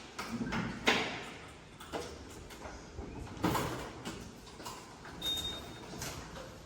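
A few scattered knocks and thuds over faint room noise: the loudest about a second in, another about three and a half seconds in, and a brief thin high tone a little after five seconds.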